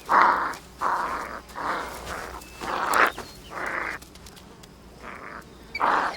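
Coyote pups growling and snarling as they play-fight: a run of five short, rough growls about half a second each, then a pause and one more near the end.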